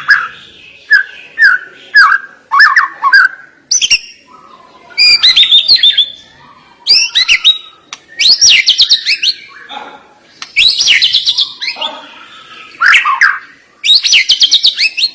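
White-rumped shama (murai batu) singing: a string of loud, sharp song phrases of rapid high notes, each about a second long with short pauses between. Short clipped notes come first, then longer fast runs.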